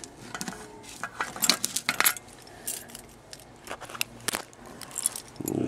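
Scattered light clicks and metallic clinks of small hand-held items being handled, about nine sharp ticks spread irregularly over a few seconds.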